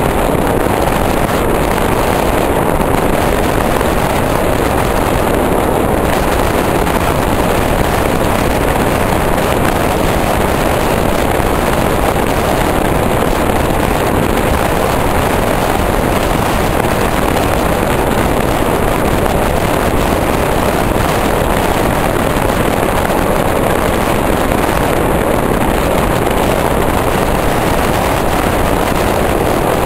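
Steady rushing noise of an electric train running at speed, heard at an open window with wind blowing across the microphone.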